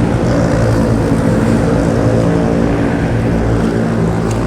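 Honda CBR500R motorcycle's parallel-twin engine running under way at fairly steady revs.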